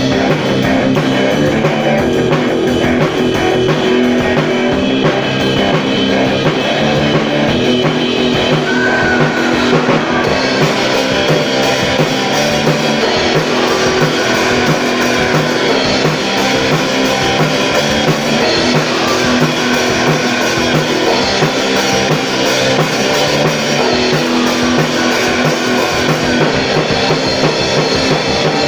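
Rock music played by a band: guitars over a steady drum kit beat, an instrumental passage without singing.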